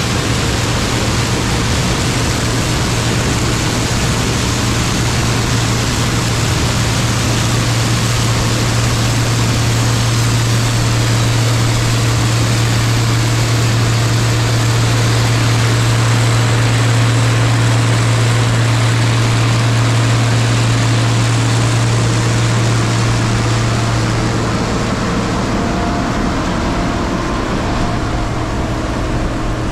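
Large diesel farm machinery running steadily: a strong low engine drone under a wide rushing noise, with the drone easing off about three quarters of the way through.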